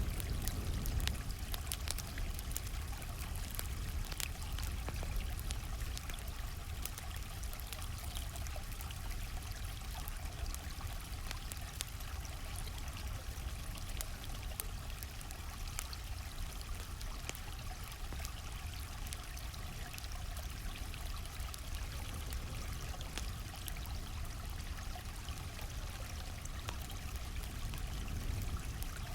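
A flowing stream, a steady rush of water, with a campfire crackling over it in frequent sharp clicks.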